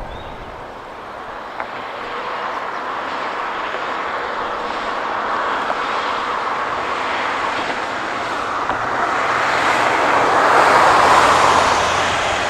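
A heavy truck approaching on the road, its tyre noise and engine hum building steadily to a peak about ten to eleven seconds in, then easing slightly as it passes.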